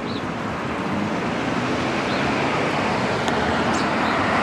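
Steady rush of road traffic noise, growing slowly louder.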